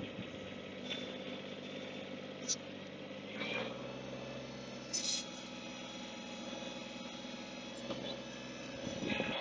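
Chainsaw engine idling steadily, its tone shifting lower about three and a half seconds in, with a couple of brief sharp clicks.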